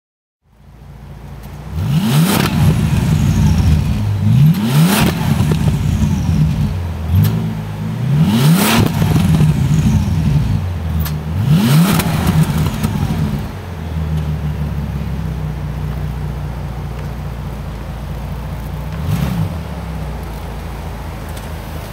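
Bentley Continental GT Speed's 6.0-litre twin-turbo W12 revved hard four times in a row, the pitch rising and dropping back with each rev, then settling to a steady idle with one short, smaller blip near the end.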